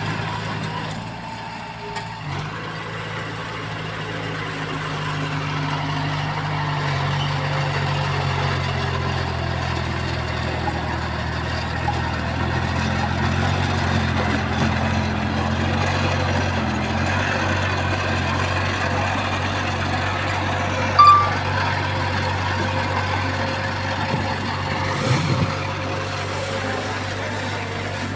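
Heavy diesel engine of earthmoving machinery running steadily, with one short high beep about three-quarters of the way through.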